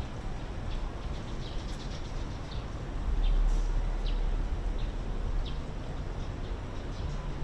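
City park ambience: a steady low rumble of distant traffic with scattered short bird chirps. A louder low rumble swells about three seconds in and fades after a couple of seconds.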